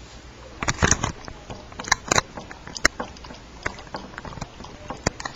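Dog lapping milk: irregular quick slurping laps and clicks, with louder clusters about a second in and again about two seconds in.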